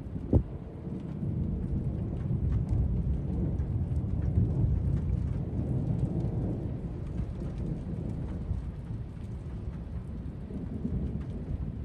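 Thunder rumbling low and long, swelling about halfway through, with scattered raindrop ticks. A single sharp click comes just after the start.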